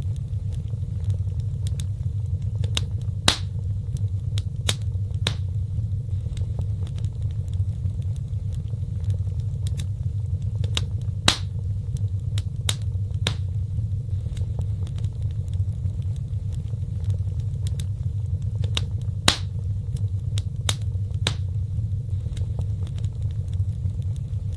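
Wood fire burning in a fireplace: a steady low rumble of flames with scattered sharp crackles and pops, a louder pop about every eight seconds.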